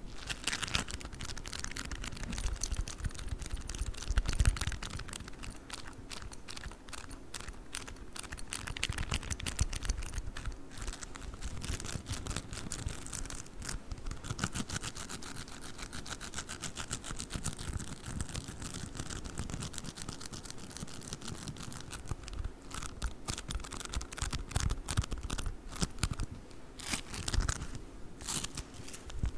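Play foam being handled close to the microphone: a continuous dense, sticky crackling of many rapid tiny clicks.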